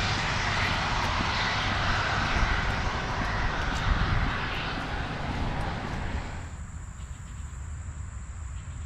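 Steady street noise of traffic passing on a wet road with wind, a rushing hiss over a low rumble, which cuts off abruptly about six and a half seconds in, leaving a faint steady high-pitched tone.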